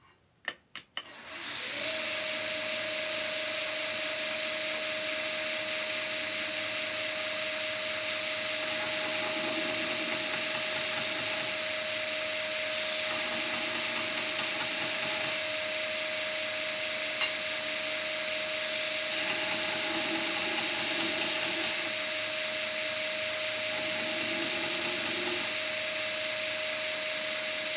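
Origin Blade Maker (OBM) belt sander switched on about two seconds in, running steadily with a hum and a high whine while metal ring shanks are sanded flat against the belt; the grinding changes a few times as pieces are pressed to the belt.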